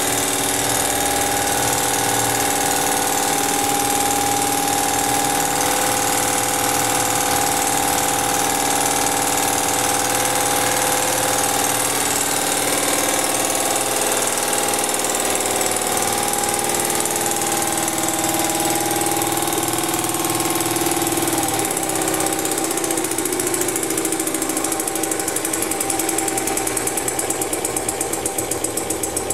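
Home-built VATOC model engine running with a fast, steady mechanical clatter. About two-thirds of the way through its pitch drops as it slows, and near the end its strokes start to come through as separate beats.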